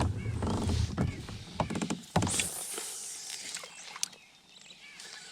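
Handling noises on a kayak: scattered knocks and clicks, with a sharper knock about two seconds in followed by a brief hiss.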